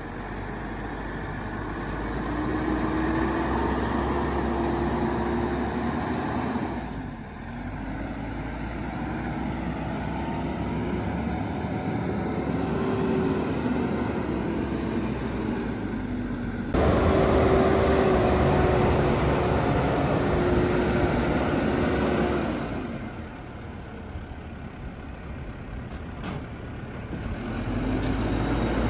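JCB 215E backhoe loader's diesel engine running, its engine speed rising and falling several times. The sound jumps abruptly louder about seventeen seconds in and eases off twice, a few seconds in and again near the end.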